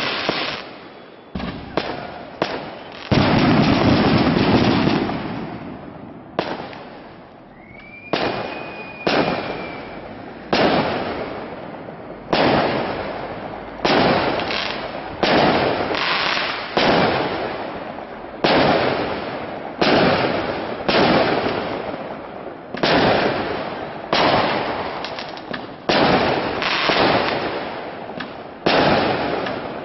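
Aerial fireworks shells bursting one after another, a sharp bang every second or two, each trailing off as it echoes away. The first few seconds hold a quicker cluster of bangs, and about eight seconds in a short whistle rises and then holds.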